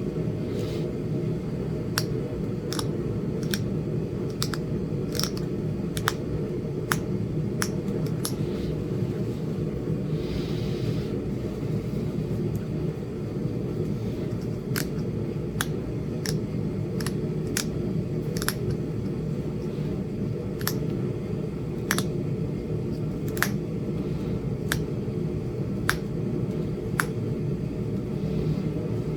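Sharp, irregular clicks of tool on stone as a small piece of Flint Ridge chert is worked into a point, about one click a second, over a steady low hum.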